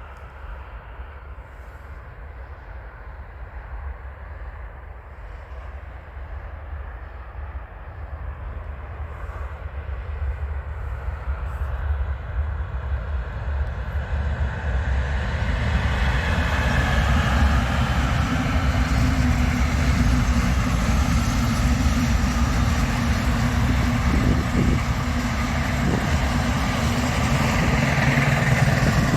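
A train approaching along the line: its low rumble and wheel noise grow steadily louder for about fifteen seconds, then it passes close by, loud and steady.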